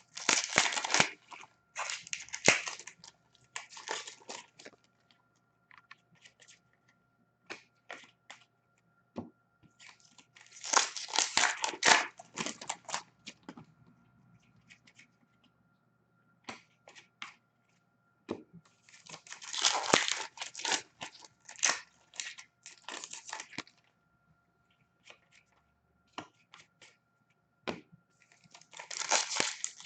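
Hockey card pack wrappers being ripped open and crumpled by hand, in four bursts of a few seconds each, with scattered clicks and snaps between them.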